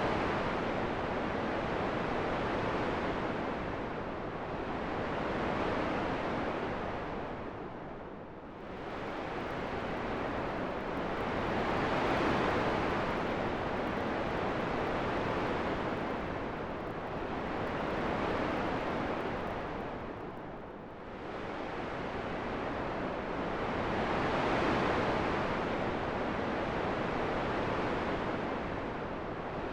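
Wind rushing in slow swells, rising and falling every few seconds, easing off most deeply twice.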